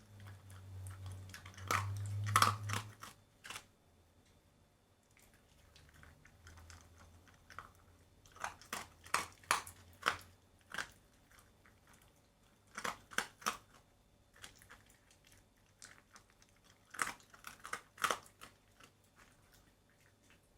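Shiba Inu chewing chicken breast meat, with moist smacking and crunching bites that come in four short bouts with pauses between.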